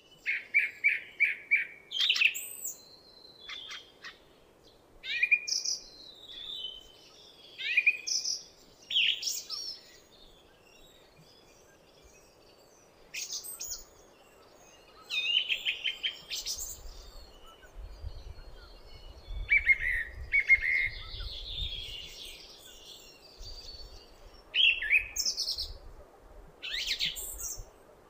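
Song thrush singing: a series of short, varied phrases, several built of quick runs of repeated notes, with brief pauses between them. A low rumble joins in the second half.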